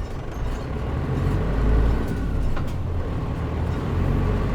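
Isuzu KL-MP37JM non-step city bus with automatic transmission, its engine and drivetrain running under way, heard from inside the cabin with the air conditioning off. The low engine rumble swells about a second in and again near the end.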